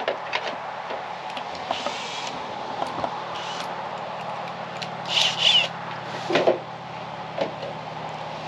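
Drill boring a small hole in the base of a solar post light, in several short bursts of about half a second each, the loudest a little past the middle, over a steady low hum.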